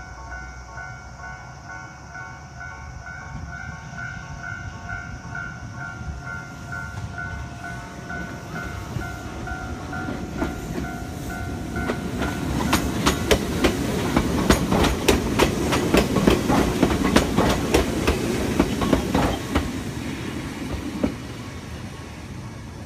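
A level-crossing alarm rings in a steady repeating pattern, then stops as a Nagano Electric Railway local electric train passes close by. The train rumbles past with a run of sharp wheel clacks over the rail joints, then fades as it rolls on toward the station.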